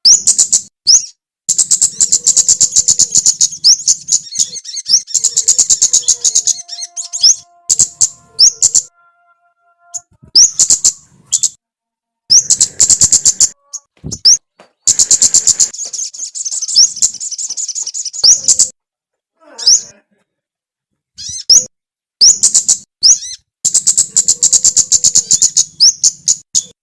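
A small songbird's song: loud bursts of rapid, high, chattering trills mixed with short upward-sweeping notes, in phrase after phrase with sudden silent breaks between them.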